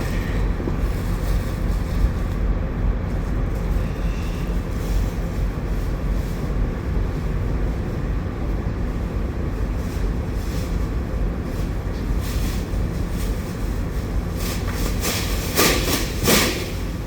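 Steady low engine rumble with a constant hum, typical of idling diesel trucks or a running trailer unit. A quick cluster of knocks and scrapes comes near the end.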